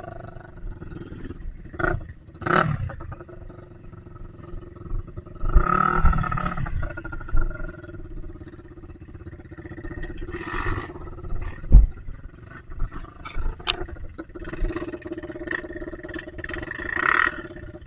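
Dirt bike engine running at low revs, with a few brief swells and scattered knocks and clatter as the bike works through mud.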